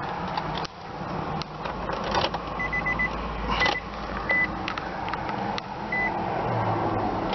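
2002 Nissan Pathfinder running at idle, heard from inside the cabin, with the dashboard warning chime beeping: four quick beeps about two and a half seconds in, then single beeps spaced a second or two apart.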